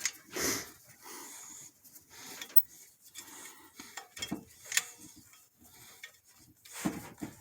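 Hand tools clinking and scraping on metal in an engine bay, with a few sharp knocks scattered among quieter clatter, as a spark plug is worked on.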